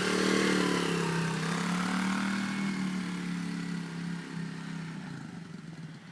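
Motorbike engine running at a steady pitch, loudest about half a second in, then fading over the last two seconds as the bike moves away.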